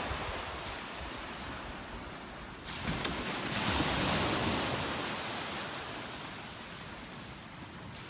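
Sea waves washing onto the shore: one wave swells in about three seconds in and slowly fades away.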